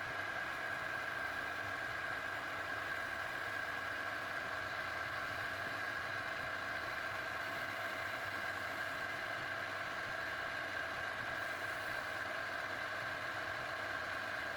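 A power tool's motor running at a steady speed, giving a constant whine that does not rise or fall.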